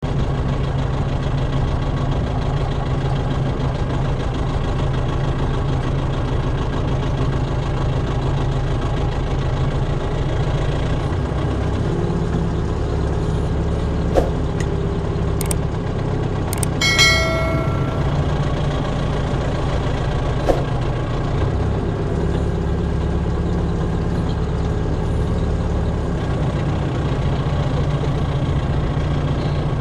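A tractor engine running steadily, its low hum shifting slightly in pitch a couple of times as the load or throttle changes. A few sharp clicks and one brief high ringing squeak come through about halfway.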